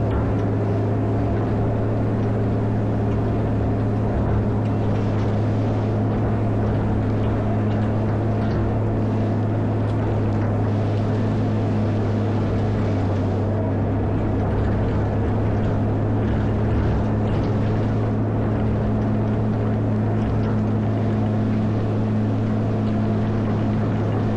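Caterpillar 140M motor grader's diesel engine running steadily at a constant speed, with a strong, even hum.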